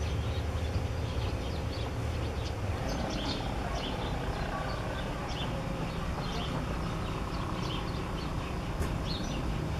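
Small birds giving many short, high chirps at irregular intervals, coming thickest from about three seconds in, over a steady low rumble.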